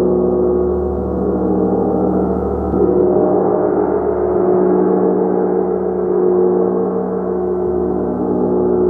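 Gong played in a continuous wash: many overlapping sustained tones hum and shimmer together, swelling gently every few seconds as fresh soft strokes feed the resonance.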